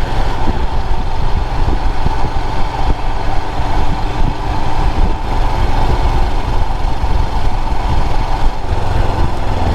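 Motorcycle engine running steadily while riding, under heavy wind rush and rumble on the microphone.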